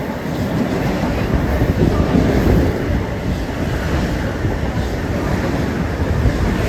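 Long Island Rail Road electric commuter train running past, a steady loud rumble and rush, with wind buffeting the microphone.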